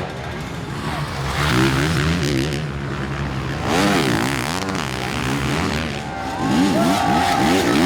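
Motocross race bikes on track, their engines revving up and falling off again and again as riders work the throttle through the course, in several loud waves as bikes pass.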